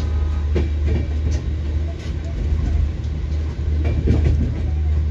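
Moving passenger train heard from inside an air-conditioned double-decker chair car: a steady low rumble of the running gear, with wheels clicking over rail joints several times.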